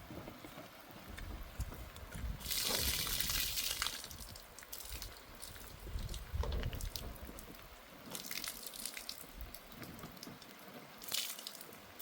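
Water splashing or being poured in a few short bursts, the longest lasting about a second and a half, starting about two and a half seconds in.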